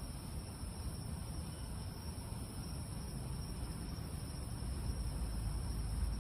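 Night insects, crickets, trilling steadily in two high, even bands. Underneath is a low rumble that swells near the end.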